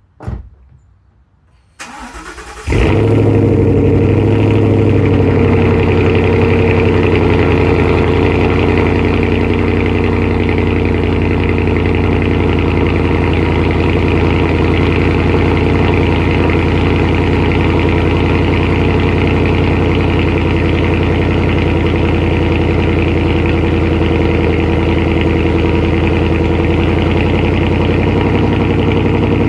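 2014 Mustang GT's 5.0 V8 through a Borla ATAK exhaust on a cold start: a click, the starter cranks for about a second, and the engine catches loudly near three seconds in. It then settles into a steady fast cold idle, easing slightly a few seconds later.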